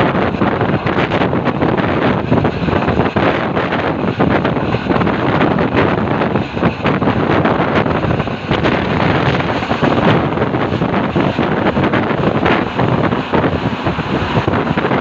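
Wind buffeting the microphone: a loud, steady rush with many small crackles throughout.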